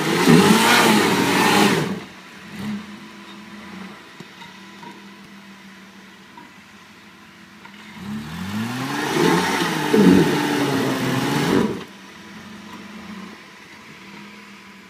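Suzuki Sierra 4WD's engine revved hard twice as it tries to climb a dirt bank: a burst of about two seconds at the start, then a rising run of revs from about eight seconds in lasting nearly four seconds, settling back to idle between and after.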